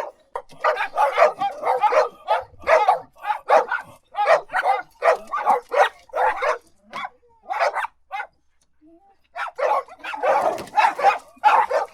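Dog barking repeatedly in quick runs of short barks. The barking pauses briefly about eight seconds in, then starts again.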